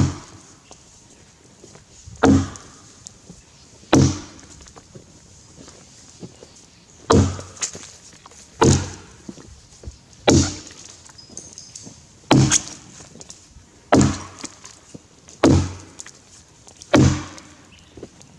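Tassie pattern axe chopping into a Grey Gum log, about ten heavy strikes spaced a second and a half to two seconds apart, with a short pause after the third.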